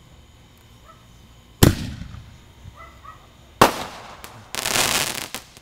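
Consumer fireworks going off: two sharp bangs about two seconds apart, each trailing off, followed near the end by about a second of dense crackling.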